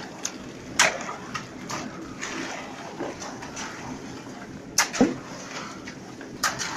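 Several sharp knocks and clacks, a few seconds apart, over a steady background noise.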